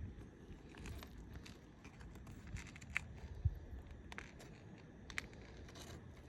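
Faint scattered taps and scrapes from handling asphalt roof shingles during a repair, with a single thump about three and a half seconds in.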